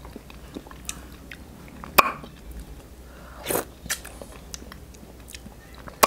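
A man eating mutton stew with his fingers: chewing and lip smacks, with a sharp click about two seconds in and another at the very end, and a short breathy noise about three and a half seconds in.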